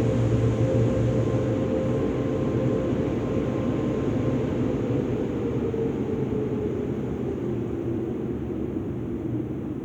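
Automatic soft-touch car wash machinery running, a steady mechanical rushing and whirring with a hum that slowly sinks in pitch as the sound gradually fades.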